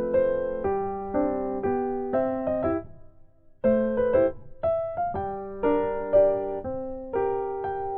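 Background music: soft piano chords struck at an even pace and left to ring, with a brief pause about three seconds in.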